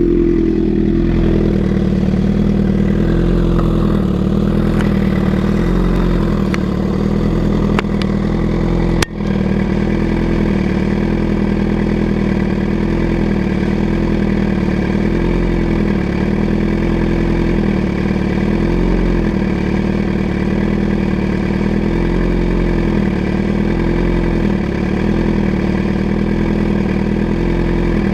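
2011 Suzuki GSX-R750's inline-four engine idling steadily through an unbaffled M4 GP slip-on exhaust with the cat deleted and an MJS mid pipe. A single sharp click about nine seconds in.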